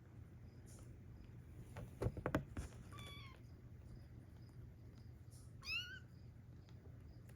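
Young kittens mewing: two short, high calls a few seconds apart, the second rising in pitch. Just before the first mew comes a brief cluster of knocks and scrapes, the loudest sound here.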